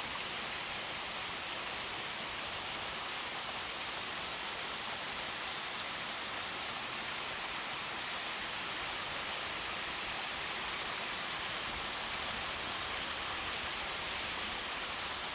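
A steady, even rushing hiss with no distinct events, in the manner of flowing water or rain.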